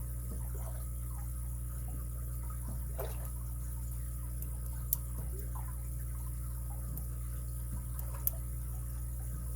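A lock pick and tension wrench working the pins inside a padlock: faint scraping and light ticking, with two sharper small metallic clicks, one about halfway through and one near the end. A steady low electrical hum runs underneath.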